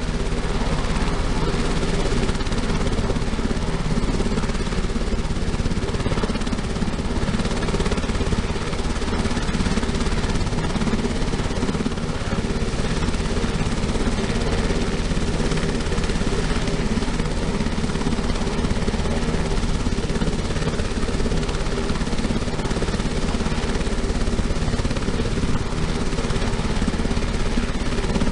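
UH-60M Black Hawk helicopter running on the ground during warm-up, its turbine engines and rotor making a steady, unbroken drone.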